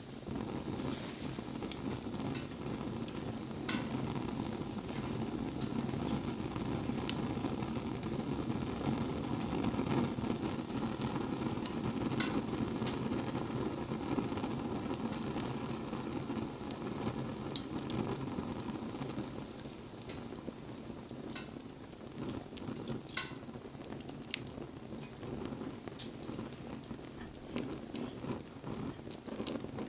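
Wood fire burning: a steady low rush of the flames with scattered sharp crackles and pops, a couple of louder pops standing out.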